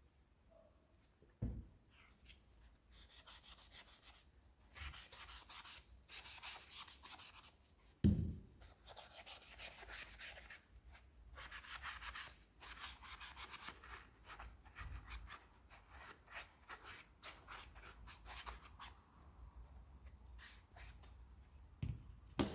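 Sandpaper rubbing over wood in runs of quick back-and-forth strokes, with a few knocks of wood set down, the loudest about eight seconds in.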